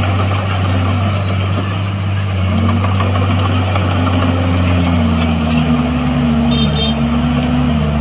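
Diesel engine of heavy earthmoving machinery running under varying load, its note rising and falling a few times over a steady low hum.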